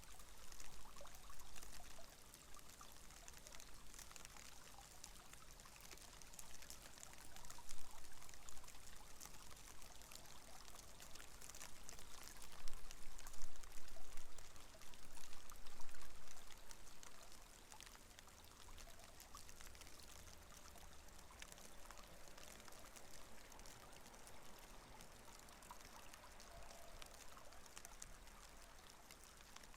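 Heavy rain falling on a window: a dense, steady hiss of many small drop ticks. It swells louder about eight seconds in and again from about twelve to sixteen seconds.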